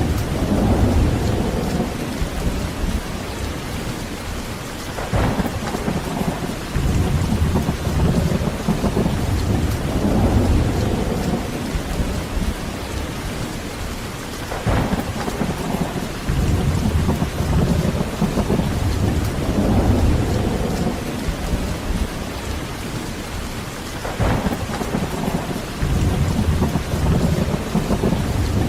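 Steady heavy rain with thunder rumbling low, swelling and fading about four times, roughly every nine seconds.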